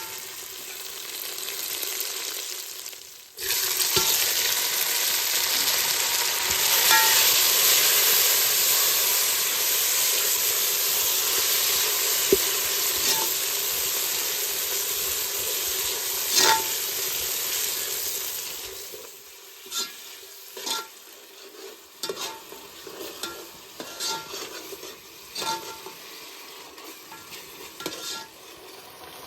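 Food frying in hot oil in a pan, a steady sizzle as it is stirred. About two-thirds of the way through the sizzle dies down and a spatula scrapes and clicks against the pan again and again.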